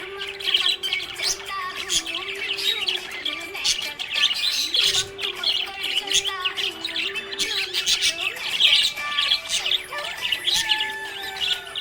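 Budgerigars chirping steadily, many short overlapping chirps and squeaks throughout, over a low sustained tone that shifts pitch in steps.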